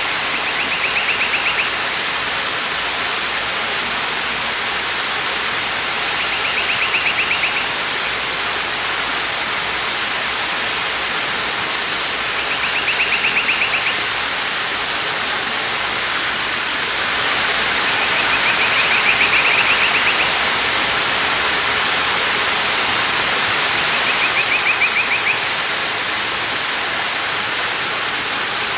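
Waterfall rushing steadily, a continuous hiss of falling water. About every six seconds a short, high, rapid trill rises above it for a second or so, six times in all.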